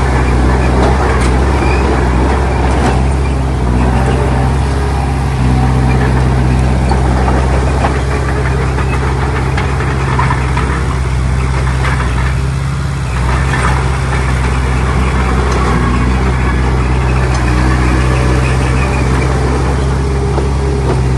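Heavy diesel earthmoving machinery running steadily, a deep, even engine drone with a brief easing of the engine note about two-thirds of the way through.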